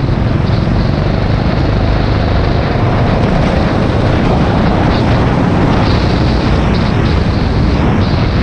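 Rental go-kart running at speed, picked up by an onboard camera as a loud, steady drone of engine and rushing noise.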